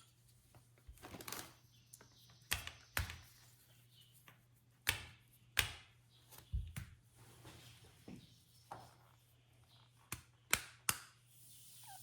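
Irregular clicks and small knocks of shower valve parts being handled: the cartridge and fittings turned over and set down. The loudest knocks come about five seconds in and twice near the end.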